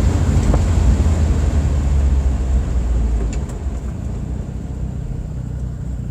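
Suzuki Carry DC51 kei truck's twin-cam turbo engine running under acceleration with a deep drone. About three seconds in the drone drops to a quieter, steadier level.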